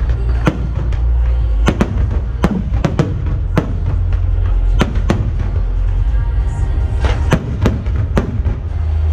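Fireworks exploding in the sky, with more than a dozen sharp bangs, some in quick runs of two or three. Behind them plays loud music with a heavy, constant bass.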